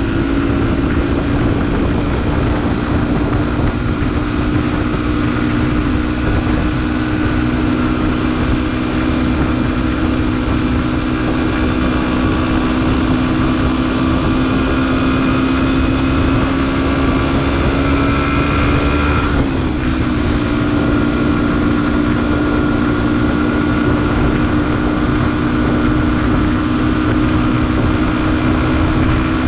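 Beta RR 125 LC enduro motorcycle's single-cylinder engine running steadily at cruising speed, with wind rushing over the microphone. The engine note rises slowly, then dips briefly about two-thirds of the way in before carrying on slightly lower.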